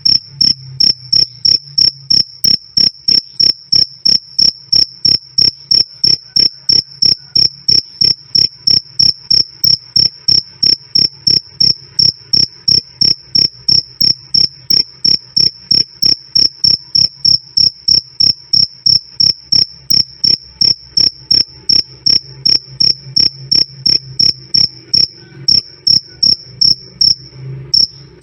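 A male cricket chirping loudly, a steady, even run of short high chirps about three a second. The run has a brief break near the end.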